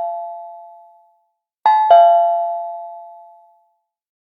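Two-note ding-dong chime like a doorbell, a higher note followed by a lower one, ringing out and then struck again about a second and a half in. It dies away well before the end.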